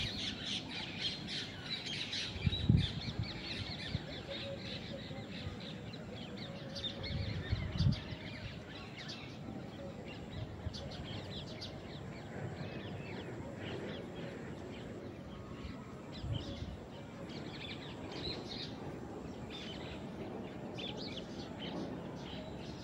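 Birds calling in the background, many short chirps throughout, with a few dull thumps about 3 and 8 seconds in and again later.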